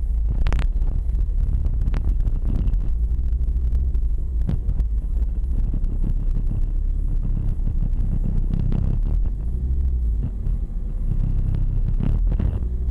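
Ford Focus RS engine running at low revs as the car crawls along, a deep steady rumble heard from inside the cabin, with a few brief clicks.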